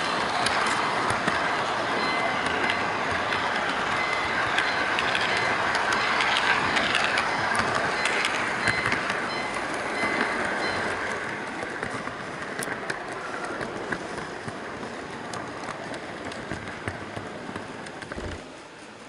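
HO-gauge model freight train running, heard from a camera riding on one of its container wagons: small metal wheels rolling and clicking over the track, getting quieter in the second half.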